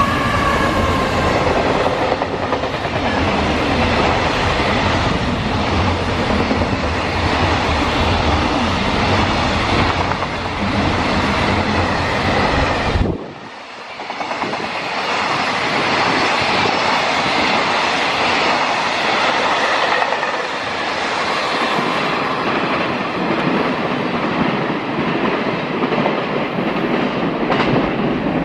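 Freight train passing close by: steady, loud rolling noise of steel wheels on rails. About thirteen seconds in the sound drops abruptly, then the train noise resumes with less deep rumble.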